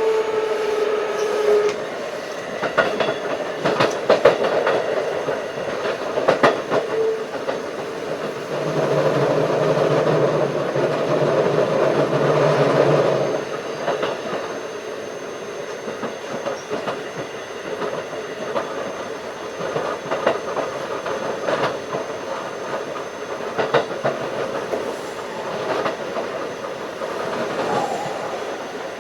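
Keikyu 1500 series field-chopper electric train running, heard from on board: a steady rumble of wheels on rail with sharp clicks over rail joints. There is a louder stretch with a low hum from about 9 to 13 seconds in.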